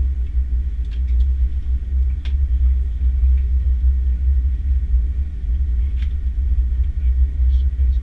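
Steady low rumble of an Airbus A330-300 on the ground, heard from inside the cabin, with a few faint clicks.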